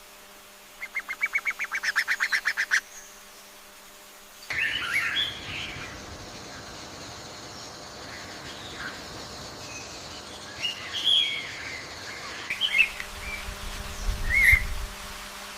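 Birds calling. First comes a quick, even run of about eight sharp notes a second lasting about two seconds. After a change of background, scattered chirps and short whistled notes follow, with a brief low rumble near the end.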